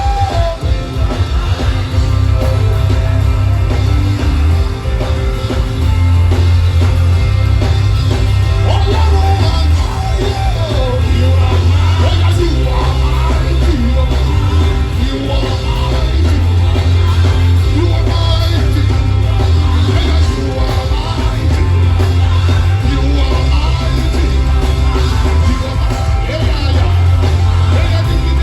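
Live worship music: a band with a heavy, pulsing bass line and singing voices over it.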